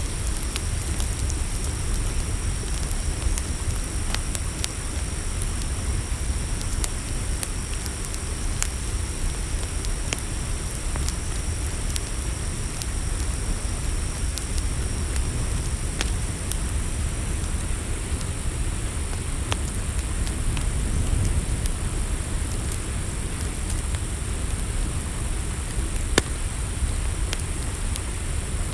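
Campfire burning with a steady low rumble and scattered crackles and pops, one louder pop near the end, over a steady high chirring of crickets.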